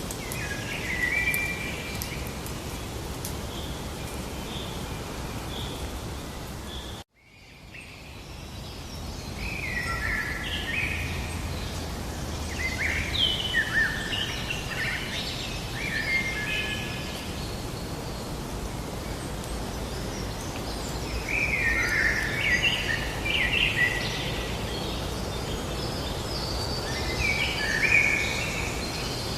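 Songbirds singing in short chirping phrases over a steady hiss of outdoor ambience. The sound cuts out abruptly about seven seconds in and fades back in, with the birdsong busier in the second half.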